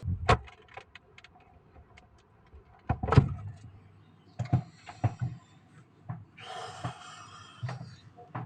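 Refrigerator door being handled: a run of knocks and thumps, the loudest about three seconds in, several sharper clicks a little later, and a short rustling hiss near seven seconds.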